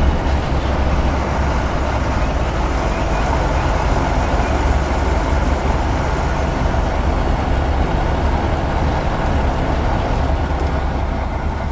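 Heavy construction vehicle engine running steadily, a constant low, dense engine noise without pauses.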